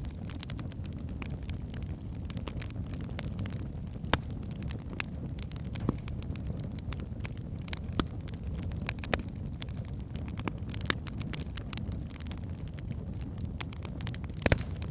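Wood fire burning in a fireplace: a steady low rumble of flames with scattered sharp crackles and pops from the logs, a few louder pops about four and eight seconds in and a double pop near the end.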